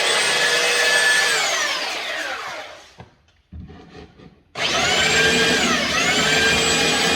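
Electric power sander sanding down a repaired stair nose where the patch sits proud. It runs with a steady whine, then is switched off and winds down over a second or so. After a short pause it starts up again about four and a half seconds in, its pitch dipping briefly just after.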